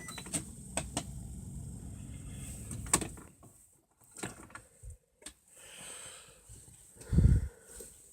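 A few sharp clicks over a low rumbling noise for about three seconds, then scattered knocks and one heavy low thump about seven seconds in.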